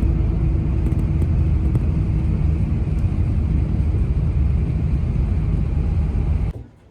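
Steady low rumble of a moving bus's engine and road noise heard from inside the cabin, cutting off suddenly near the end.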